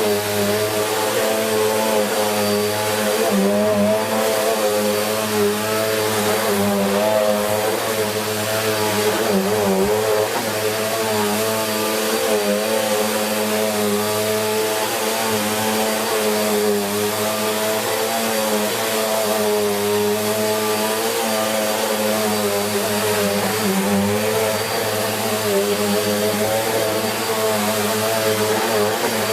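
Bissell Cleanview Plus 1900 W bagless upright vacuum cleaner running on carpet, its motor and brush roll giving a steady hum whose pitch dips and rises slightly throughout.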